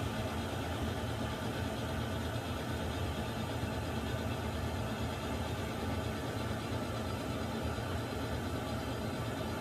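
Water heater running: a steady, unchanging low rumble with an even hiss above it.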